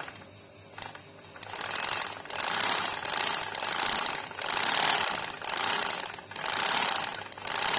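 Riccar sewing machine running on its replacement motor and new timing belt, clattering in a series of short runs of about a second each as it is test-run. It is judged fine afterwards.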